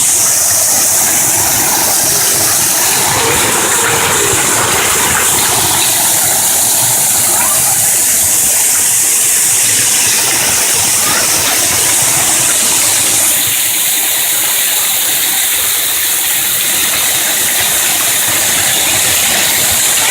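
Loud, steady rushing of a waterfall, falling water with no break.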